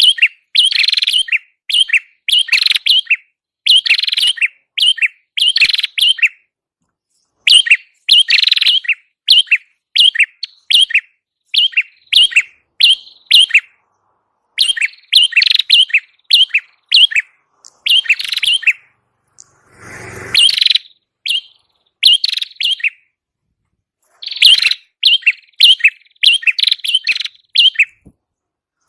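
Recorded song of a prenjak kepala merah: loud bursts of quick, sharp chirping notes repeated about every second, with short pauses between phrases. About twenty seconds in there is a brief, softer rustling noise.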